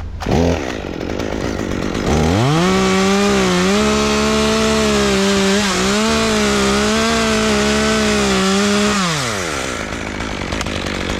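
Chainsaw blipped briefly, then revved up about two seconds in and held at full throttle for about seven seconds with small dips in pitch as it cuts a notch in a Bradford pear, before dropping back to idle near the end.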